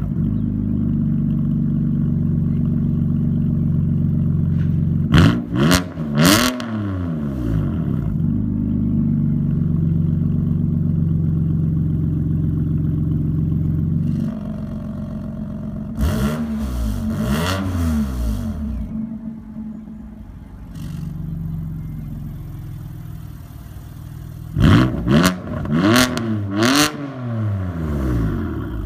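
BMW M3 F80's twin-turbo inline-six idling through a Capristo valved exhaust and blipped in three short sets of revs. The idle turns quieter about 14 seconds in as the exhaust flaps close, so the middle revs are on closed flaps and the last set is on open flaps.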